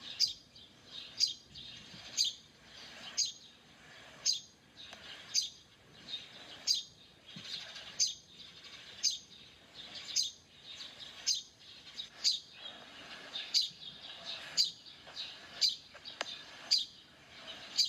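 A bird calling over and over: a short, sharp note falling in pitch, repeated about once a second, with softer chirping between the calls.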